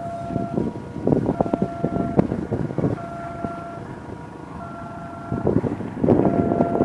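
A passenger train passing, its wheels clattering in bursts. Under it, a repeating electronic warning tone that steps between pitches about every second and a half.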